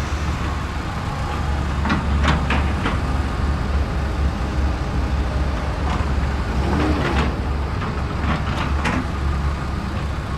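A machine running with a steady low hum, with a few short scrapes and clicks over it.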